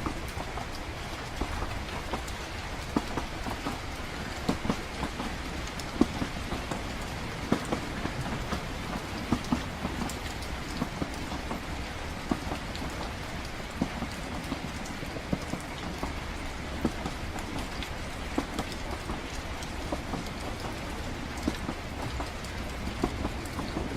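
Train-at-night ambience: a steady low rumble under an even hiss of rain, with many small scattered taps like raindrops.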